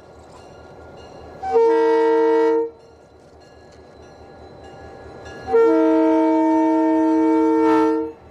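Diesel locomotive's multi-chime air horn sounding a short blast and then a long one, the closing short-and-long of a grade-crossing signal. The low rumble of the train grows slowly louder underneath.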